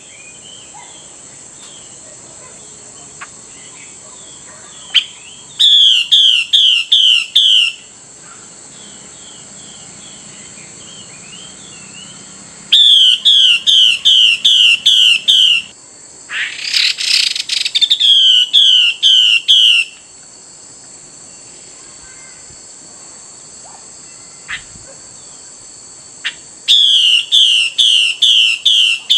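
Female Chinese hwamei calling: four runs of rapid, repeated sliding whistled notes, about three a second, with a harsh rasping note in the middle of the third run. It is the female's call that keepers play to stir a male hwamei to sing. A steady high-pitched hiss runs underneath.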